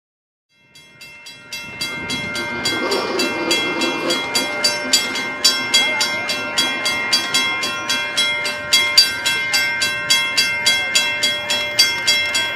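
Railroad grade-crossing warning bell ringing: a steady run of rapid strikes, about three to four a second, each ringing on into the next. The sound fades in over the first two seconds.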